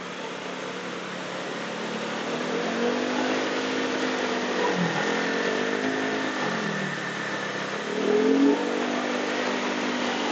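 Motorcycle engine running on the move, its pitch rising and falling with the throttle. It drops twice around the middle and revs up louder about eight seconds in, over a steady rush of wind and road noise.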